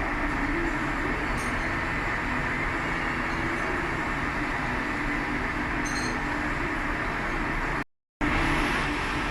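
Sirco PA24 gap-bed engine lathe running under power, a steady mechanical hum of spindle and gearing. It breaks off for a moment near the end.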